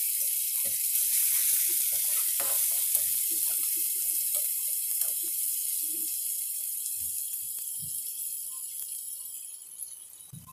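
A paste of ground onion, garlic and ginger sizzling in hot oil in a steel kadhai, with light clicks and scrapes from a perforated steel spoon stirring it. The masala is being fried until the onion turns golden brown. The sizzle fades away gradually over the last few seconds.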